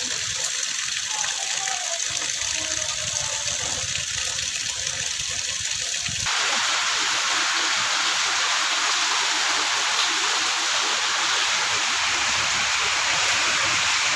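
Heavy rain falling in a steady rushing hiss; about six seconds in the sound jumps abruptly to a louder, brighter downpour.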